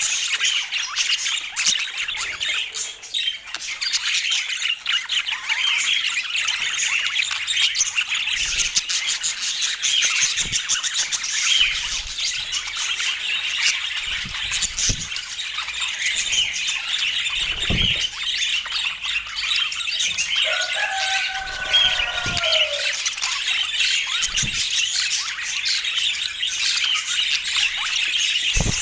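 Budgerigars chattering and warbling without a break, a dense stream of quick chirps and squawks, with a lower falling call about two-thirds of the way in.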